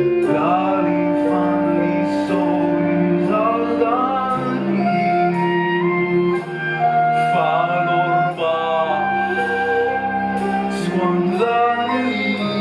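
Live music from a seven-piece ensemble: sustained notes with vibrato over steady low held notes.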